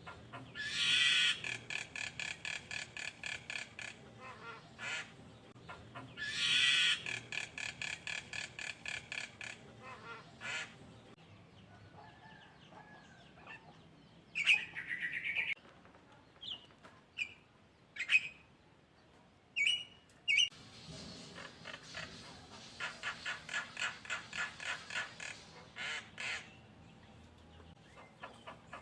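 A songbird singing: long runs of rapid, harsh repeated notes, about four a second, three times over, with short whistles and chips between the runs.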